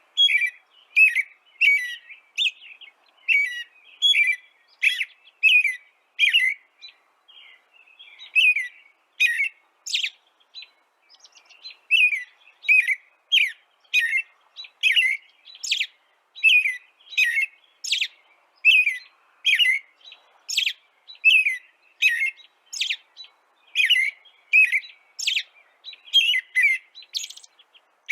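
Small songbird chirping over and over in short, sharp chirps, about two a second, with a brief lull about a quarter of the way through.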